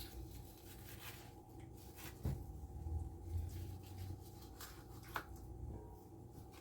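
Soft rubbing and handling sounds of a whole raw chicken being worked on for cutting up, with a few brief knocks, over a faint steady hum.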